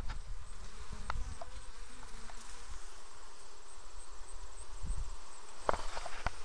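Honeybees humming steadily around an open hive, with a few sharp clicks or knocks, the loudest a little before the end.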